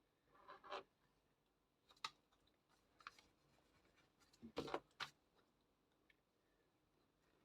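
Faint scratches and taps of a pencil writing on paper, in short scattered strokes, the loudest cluster about four and a half seconds in.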